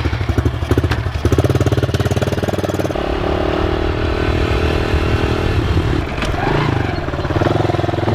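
A 110cc pit bike's small engine running just after being started without the choke, idling with an even pulse. About three seconds in, the sound changes to a steadier, higher engine note, which rises and falls near the end.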